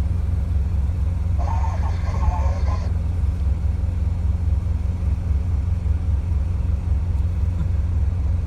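Diesel truck engine idling, heard from inside the cab: a steady low rumble. About a second and a half in, a brief higher sound rises over it for about a second and a half.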